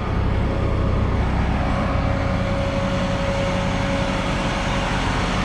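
Vehicle engine running steadily, heard from inside the cab, with a thin steady whine over the low rumble.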